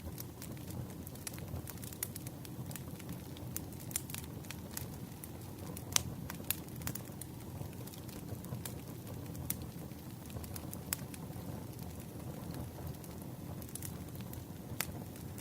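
Wood campfire burning: a steady low rumble of flames with many scattered sharp crackles and pops of wood, the loudest pop about six seconds in.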